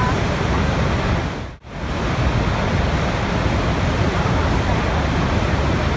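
Steady rushing of running water, an even roar with no separate events. About one and a half seconds in it briefly drops out and comes straight back, as at an edit or loop splice.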